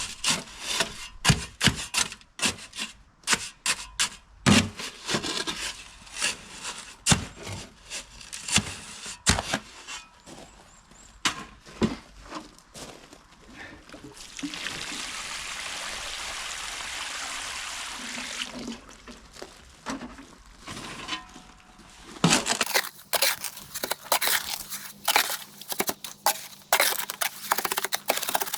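Hand tools working soil and wet concrete around a post: a run of scrapes, crunches and knocks. In the middle there is a steady pouring hiss for about four seconds.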